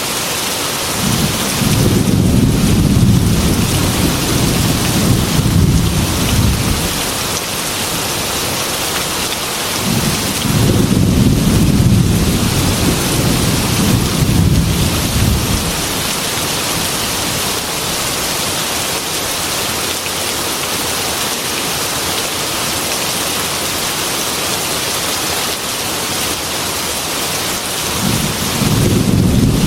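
Heavy rain falling steadily against a glass window, with rolls of thunder rumbling low three times: about a second in for several seconds, again from about ten seconds, and once more near the end.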